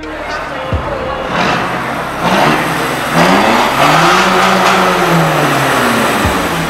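Car engine being revved: a couple of short blips, then a longer rev that climbs and falls back away, loud with plenty of exhaust noise.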